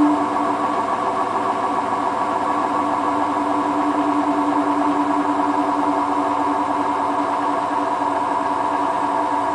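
Hotpoint WT960 washing machine spinning steadily at 600 rpm: a constant-pitch motor whine with drum rumble.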